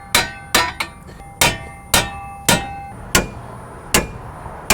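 A hammer striking a steel pickle fork (ball joint separator) to split the steering knuckle free: about eight hard metal-on-metal blows, irregularly spaced roughly half a second to a second apart, each ringing briefly.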